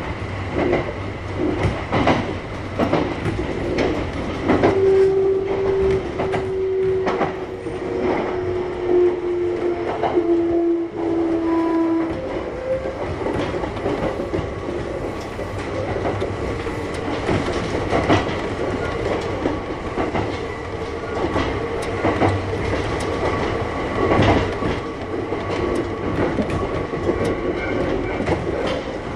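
Kintetsu 1021 series electric train with Hitachi GTO inverter traction running between stations, heard from inside the car. Wheels click over rail joints throughout, and a tone falls slowly in pitch from about five to twelve seconds in.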